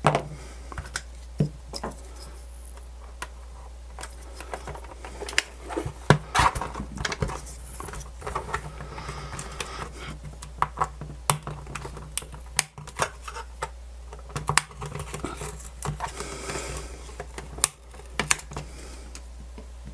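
Irregular small clicks, taps and scrapes of hand tools and plastic radio-case parts being handled and pried apart, over a steady low hum.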